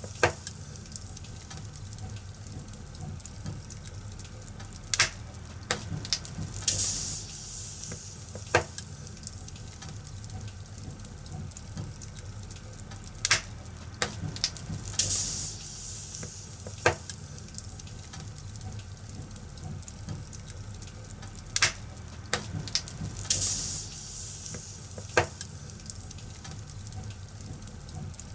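Wood fire crackling, with sharp irregular pops every second or two over a steady low rumble. Short bursts of hissing come about every eight seconds.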